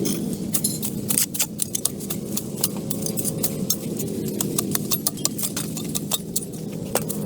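A small engine running steadily, with many sharp metallic clicks and clatters over it.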